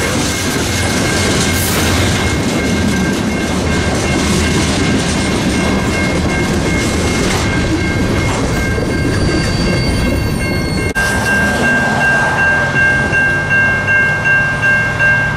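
A train rolls past at close range: a loud steady rumble and rattle of railcars and wheels on rail, with a thin steady high squeal over it. Near the end the noise turns into an even clatter of wheels, pulsing more than once a second.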